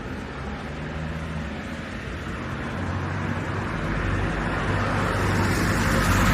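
Street traffic: a motor vehicle approaching, its engine and tyre noise growing steadily louder toward the end.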